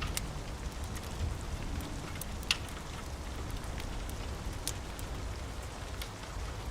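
Steady rain with a low rumble underneath, mixed with scattered sharp crackles and pops from a wood fire. The loudest pop comes about two and a half seconds in.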